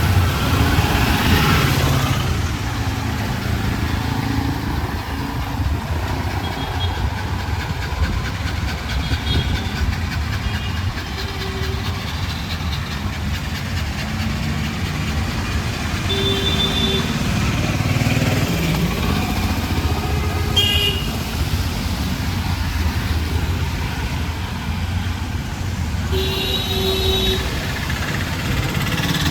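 City street traffic: vehicle engines running steadily, with short horn toots sounding several times, one of the longest near the end.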